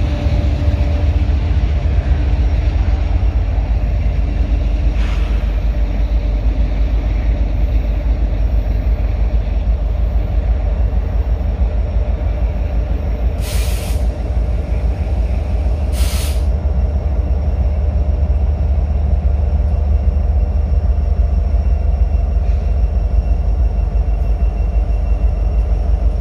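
Diesel-electric freight locomotive rumbling steadily as it rolls slowly past at the head of a manifest train, with two short sharp hisses of air about halfway through.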